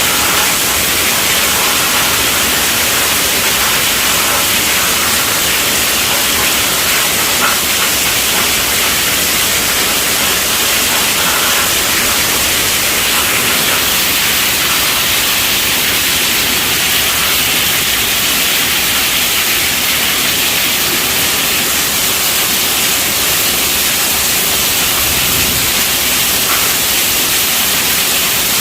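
Heavy rain falling on a tent roof: a dense, steady hiss of drops with no let-up.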